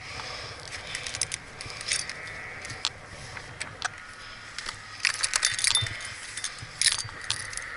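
Metal tree-climbing and rigging hardware, such as carabiners, clinking and jangling in a series of light ticks, bunched about five seconds in and again near seven seconds.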